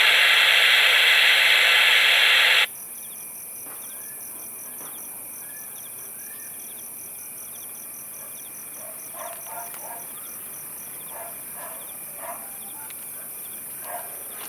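Loud radio static hiss from an airband receiver, cutting off abruptly about two and a half seconds in as the squelch closes. Behind it, insects chirp in a steady, evenly pulsing rhythm.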